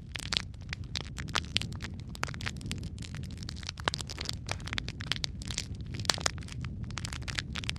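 Wood fire crackling in a fireplace: frequent sharp pops and snaps over a steady low rumble of the flames.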